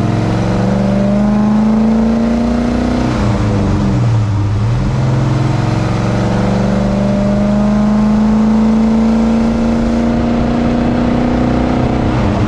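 1966 Oldsmobile 442's 400 cubic inch V8 with four-barrel carburettor and dual exhaust pulling through the gears of its four-speed manual. Revs climb steadily, fall at an upshift about three seconds in, then climb again in the next gear, with another shift right at the end.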